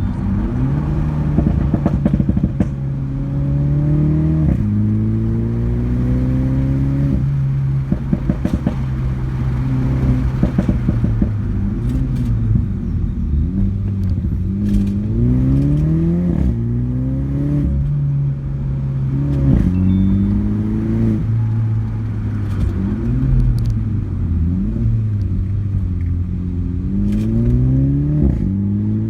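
2018 Mini John Cooper Works (F56) with a custom pop-and-bang exhaust, its turbocharged 2.0-litre four-cylinder accelerating through the gears: the engine pitch climbs and drops at each shift, over and over. Sharp crackles and pops from the exhaust come in between.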